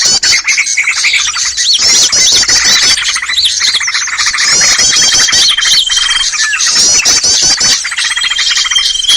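Bird-lure recording of many small birds calling at once: dense, overlapping high chirps and quick rising and falling notes, with a steady high whistled note held for about a second twice.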